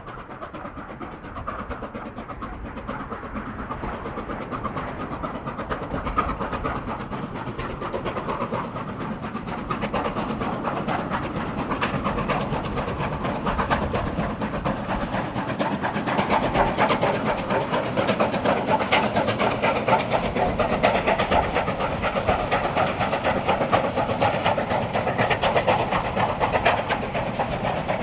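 China Railways QJ-class 2-10-2 steam locomotive approaching, its exhaust and running gear growing steadily louder over the first half and then staying loud.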